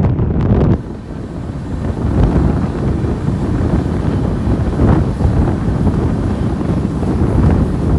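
Wind buffeting the microphone over the low rumble of the moving Garib Rath Express train, recorded from on board. The wind noise drops suddenly just under a second in, and a steadier running rumble continues.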